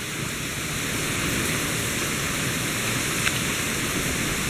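Steady rushing noise of hurricane rain and wind, with a faint click about three seconds in.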